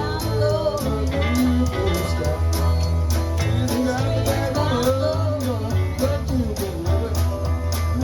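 A live band playing an instrumental stretch of a country-blues song: guitar with bends in pitch over a steady bass line and a regular beat.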